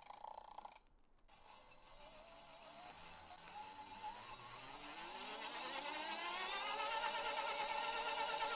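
15 kW brushless electric motor spinning up on its speed controller, a whine that rises in pitch and grows louder for about six seconds, wavering at times, then holds steady. The builders put the motor's trouble down to the controller losing synchronisation with it.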